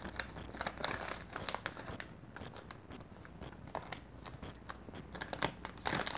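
Close-miked chewing of soft gummy jelly worms with wet mouth clicks, mixed with the crinkle of plastic candy packets being handled. The crinkling is denser about a second in and again near the end.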